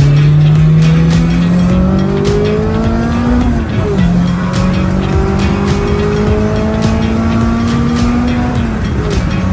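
Toyota Corolla GTi (AE92) 4A-GE 16-valve four-cylinder engine and exhaust, fitted with a new muffler, pulling hard through the gears: the pitch climbs steadily, drops at a gear change about four seconds in, climbs again, and drops at another shift near the end.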